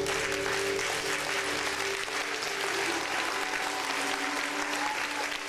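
Audience applauding, over the last held notes of the dance music, which fade out about halfway through.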